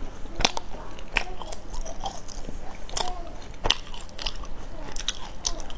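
A mouthful of crunchy nut brittle being chewed, giving irregular crisp crunches.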